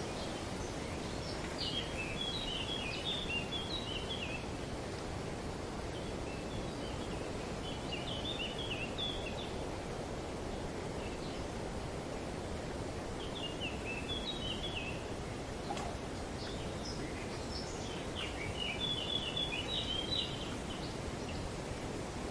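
Steady rush of wind through trees, with four separate bursts of rapid high bird chirping, each lasting one to two seconds.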